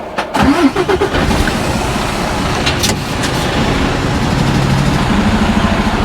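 Lorry's diesel engine starting under a second in, then running steadily and loud.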